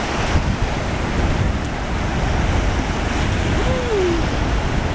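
Atlantic Ocean surf washing in at the shoreline, with wind rumbling on the microphone.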